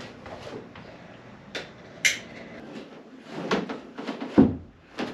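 Knocks, bumps and scrapes as a ceiling panel is worked up into place inside a motorhome, with a brief hissy scrape about two seconds in and two louder thumps near the end.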